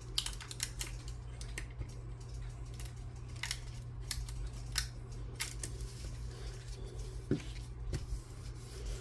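Hands working with paper and craft tools at a table: scattered, irregular light clicks and snips, over a steady low hum.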